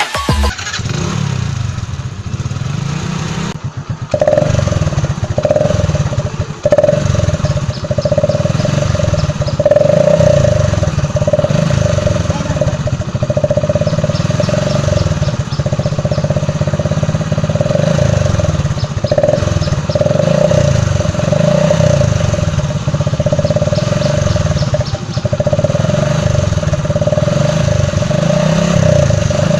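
Motorcycle engine running, its speed rising and falling, with a steady high whine joining in a few seconds in and cutting in and out.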